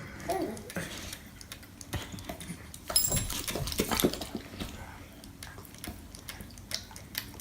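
A run of irregular light clicks and clatters, a few louder knocks about three to four seconds in.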